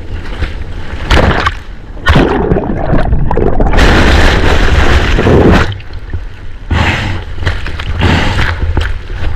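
Whitewater from a broken wave crashing and churning around a surfer caught inside, in loud surges with splashing and gurgling water, the biggest in the middle. A steady low rumble of wind on the microphone runs underneath.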